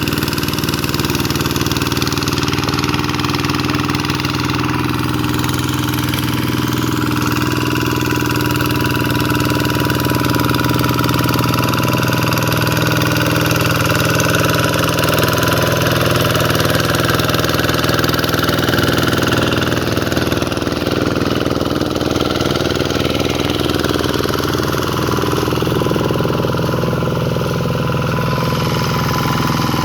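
Single-cylinder diesel engine of a Vikyno RV125-2 walking (hand) tractor, running steadily at an even speed.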